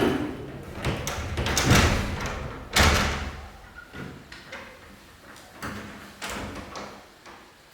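A series of knocks and thuds as people move into a room, the loudest about three seconds in, with quieter ones after.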